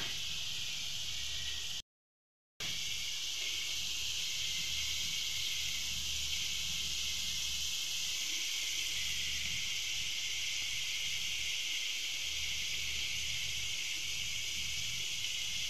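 Paneer cubes shallow-frying in desi ghee, a steady sizzle. It cuts out briefly about two seconds in.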